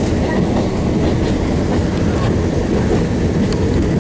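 Alishan Forest Railway narrow-gauge passenger train running, heard from inside a coach: a steady loud rumble of wheels on rail with faint scattered clicks.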